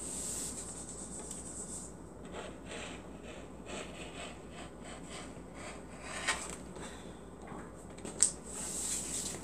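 Fabric being handled and rubbed on a work surface, a rustling and rubbing noise with a run of soft strokes in the middle. A sharp click comes about six seconds in and a louder one near the end.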